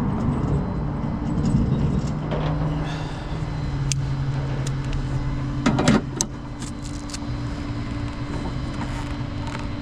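A vehicle engine running steadily, with a few sharp ticks and a short, loud clatter about six seconds in.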